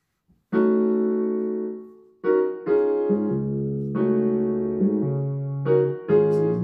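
Piano music starting about half a second in after silence: slow, held chords struck one after another, with a low bass note joining about three seconds in.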